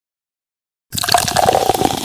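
Water sound effect, a gushing, crackly rush of liquid that starts abruptly about a second in after silence.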